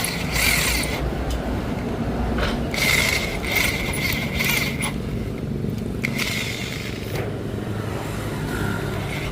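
Metal tool work on a rusted exhaust bolt: mechanical scraping in bursts, the longest lasting about a second and about two seconds, over a steady low hum.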